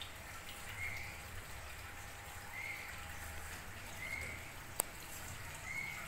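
A bird's short, faint call repeating four times, about every second and a half, with a single sharp click near the end.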